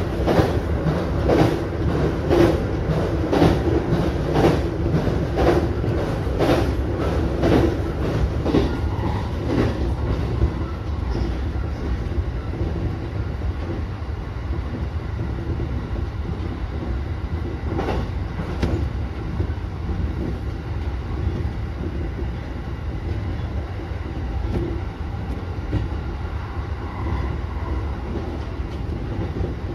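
Electric commuter train running, heard from the driver's cab: a steady low rumble with rhythmic wheel clacks over rail joints at about two a second that fade out about ten seconds in, and a double click about eighteen seconds in.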